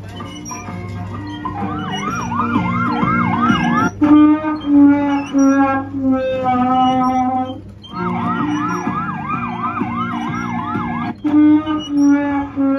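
Falgas fire truck kiddie ride playing its electronic siren sound effect, a fast rising and falling wail heard twice for a few seconds each, over its looping ride music.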